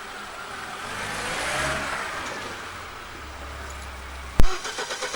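A car passing by, its engine and tyre noise swelling and fading with a slightly falling pitch. Near the end a sharp loud click, then a few quick fainter ticks.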